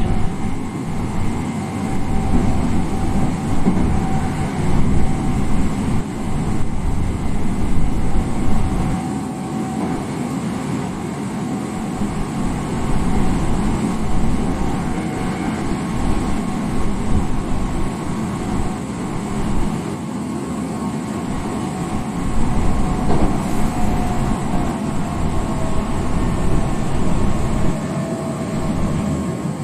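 Hankyu 5300 series electric train running at speed: steady wheel-and-rail rumble with the faint hum of its TDK8550-A traction motors, the tones drifting slightly in pitch.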